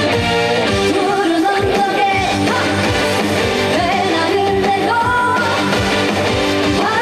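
Trot song performed live: a woman singing over amplified backing music with guitar and a steady drum beat.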